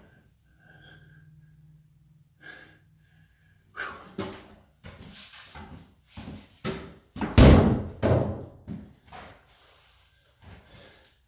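A few quiet seconds, then a run of knocks and heavy thuds, the loudest a slam about seven seconds in.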